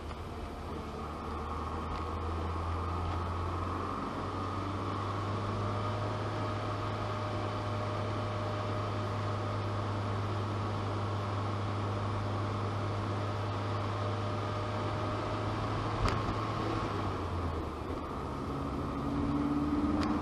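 Opel Kadett C Coupe 2.0E's four-cylinder CIH engine and exhaust droning steadily, heard from inside the cabin while driving. The drone steps up in pitch about four seconds in, a short sharp click comes near the end, and the engine note then dips and rises again.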